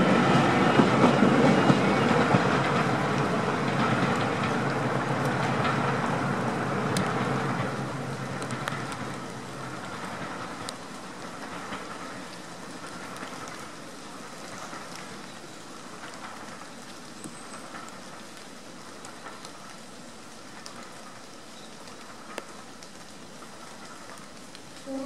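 A heritage diesel-hauled passenger train runs away into the distance, its rumble and wheel clatter fading steadily over about ten seconds. After that only a faint steady hiss is left.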